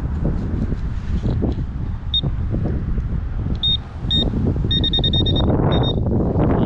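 A Garrett handheld pinpointer gives short high beeps at one pitch, a few single ones and then a quick run, as it picks up more metal in the dig hole. Wind rumbles on the microphone throughout.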